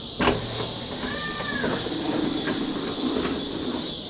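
Manual window crank of a Ford F-100 door being turned, the glass sliding in its run channel, with a sharp click at the start and a short squeak about a second in.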